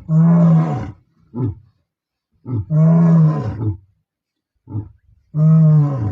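Male lions roaring: three long, loud roars with short grunts between them.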